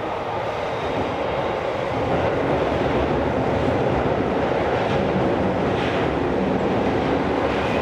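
Tokyo Metro Series 16000 subway train running between stations, heard inside the car: a steady rolling rumble of wheels on rail with a faint high whine, growing slightly louder about two seconds in.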